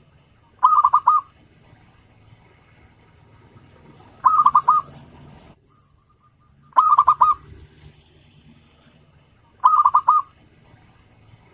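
Zebra dove (perkutut) cooing song: four short phrases of several quick, rolling notes, one about every three seconds.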